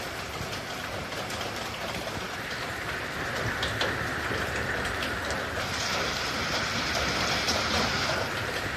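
Heavy rain: a steady rushing hiss with scattered drop ticks, growing a little louder and brighter partway through.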